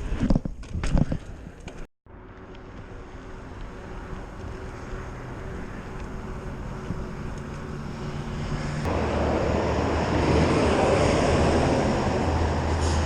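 Airplane engines growing steadily louder as the aircraft approaches, becoming a loud rushing drone with a deep hum from about nine seconds in, as it passes close by. The first two seconds hold rumbling wind noise before an abrupt cut.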